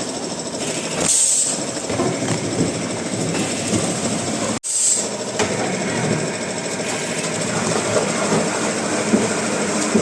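Woodworking machinery running steadily, with a brief dropout a little before halfway where the sound cuts off and resumes.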